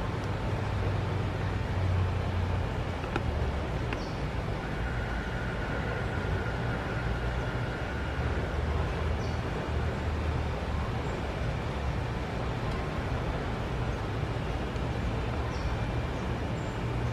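Steady low background rumble with a few faint, short, high bird chirps a few seconds apart.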